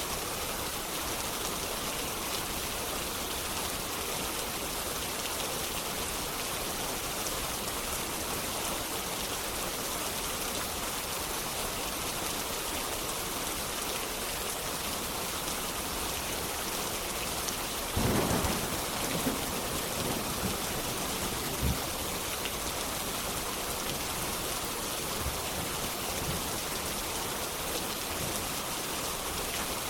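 Steady rain falling, with a clap of thunder about two-thirds of the way in that rumbles for a few seconds with several sharper cracks before fading back into the rain.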